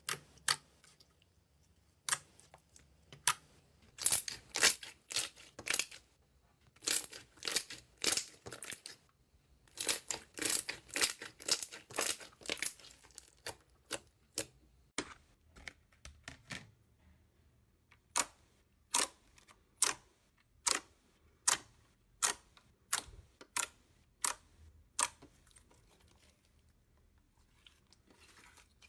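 Slime being poked and squeezed by hand, giving irregular sharp pops and crackles as trapped air bursts. The pops come in dense clusters, then grow sparser and fainter toward the end.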